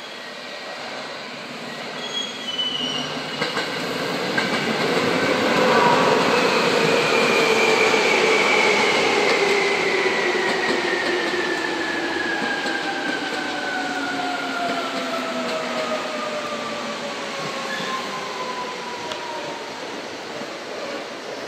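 Seibu 2000 series electric train arriving and braking into a station. The running noise swells as the cars pass close, loudest a few seconds in, while a whine falls steadily in pitch as the train slows almost to a stop.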